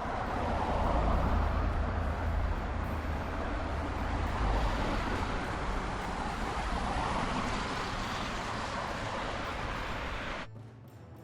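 Heavy vehicle running, a steady engine rumble mixed with road and wind noise, which cuts off abruptly about ten and a half seconds in.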